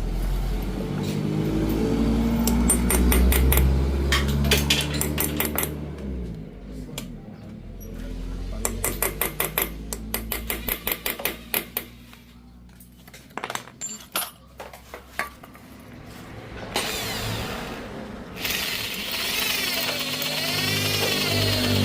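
Hand and power tools working on metal: a machine hums at first, then comes a run of quick, sharp metallic clicks at about five a second, and near the end a steady whirring noise.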